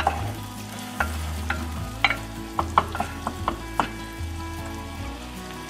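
Chopped shallots sizzling as they fry in melted butter in a small saucepan, stirred with a wooden spoon that knocks against the pan several times, mostly between about one and four seconds in.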